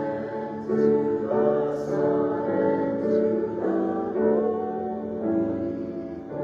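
Church music: voices singing a hymn together with instrumental accompaniment, held chords changing about once a second.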